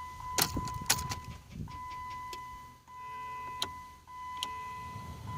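A car key turning in the ignition: a few sharp clicks in the first second or so and a few fainter ones later. A steady high electronic tone sounds throughout, with brief breaks.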